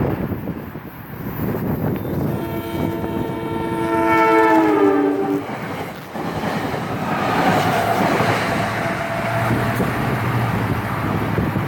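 Train horn sounding for about three seconds, its pitch dropping near the end as the train passes, followed by the steady rumble and rail noise of the train going by.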